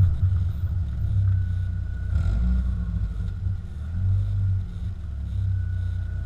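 Exhaust of a BMW E46 with a Novus aftermarket exhaust running with a deep, low note that swells and eases a few times. A faint steady high tone sits above it.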